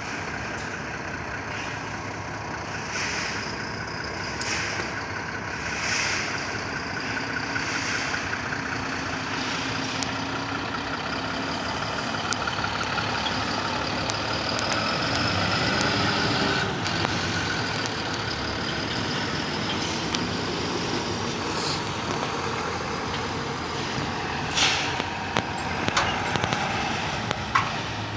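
Heavy truck engine running steadily, its pitch shifting now and then, with a few sharp knocks near the end.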